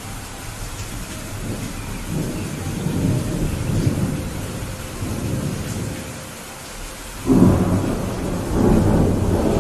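Steady rain with thunder. A low rumble swells and fades through the first half, then a louder clap of thunder breaks suddenly about seven seconds in and goes on rumbling.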